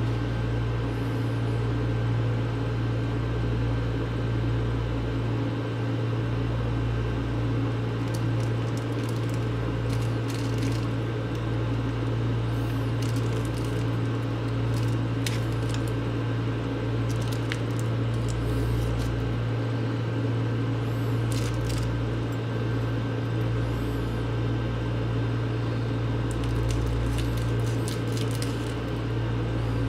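Microwave oven running with its steady low hum and a thin steady whine, with scattered short crackles and pops from about eight seconds in, from the ball of packing tape heating inside.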